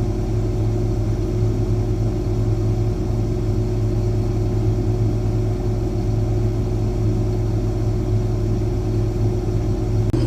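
Combine harvester running steadily while cutting soybeans: a constant low drone with a steady hum.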